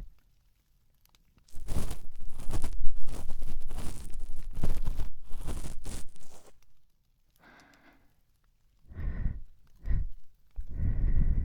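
Cotton swab rubbing and scratching close against a binaural microphone's ear: a dense, crackly scraping that lasts about five seconds and then stops. Near the end come a few short, soft breathy sounds close to the ear.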